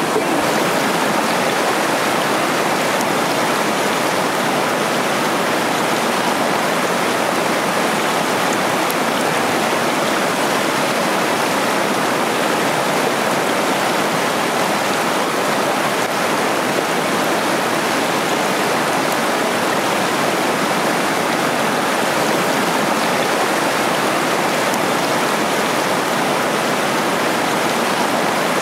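Water of a small waterfall and stream rushing and splashing over rocks in a steady, unbroken roar.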